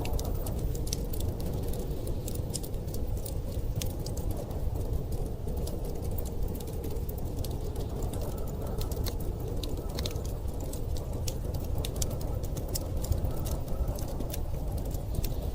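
Wood fire crackling, with irregular sharp pops and ticks, over a steady low rumble of blizzard wind.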